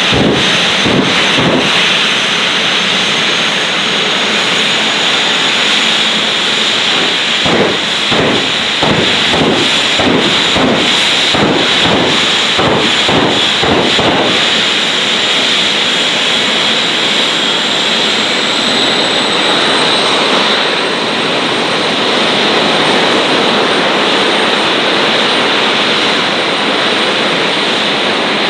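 Jet engine of a 1940 Ford pickup jet truck running hard with a loud hiss, its high whine climbing slowly as the turbine spools up. Through the first half comes a run of rapid, even bangs.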